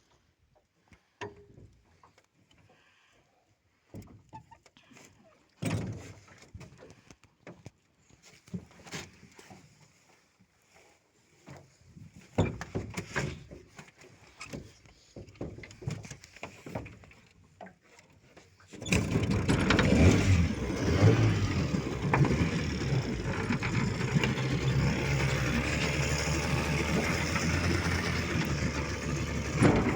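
Scattered knocks and short bursts of noise, then about two-thirds of the way in a Vikhr two-stroke outboard motor starts and runs steadily and loudly.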